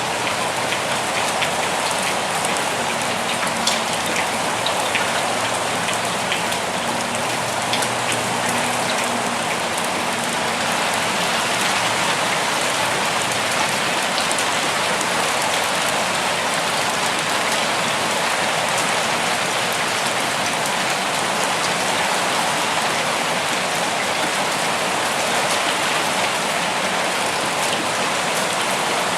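Steady forest rain falling evenly and unbroken, with fine individual drop ticks heard through the dense hiss.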